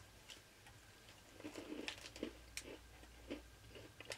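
A person chewing a small vanilla-flavoured biscuit: faint, irregular chewing and crunching sounds starting about a second and a half in.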